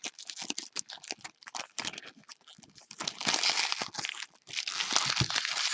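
Baseball card pack wrappers crinkling and tearing, with quick clicks and rustles of cards being handled; the crinkling is densest about three seconds in and again near the end.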